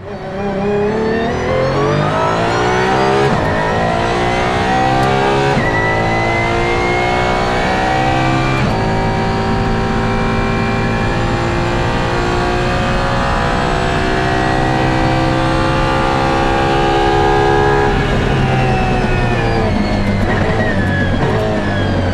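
Apollo Intensa Emozione's 6.3-litre V12 race car accelerating hard through several upshifts of its straight-cut Hewland sequential gearbox, gear whine riding over the engine note. The pitch climbs with sharp shifts in the first nine seconds, holds high and steady, then falls away over the last few seconds.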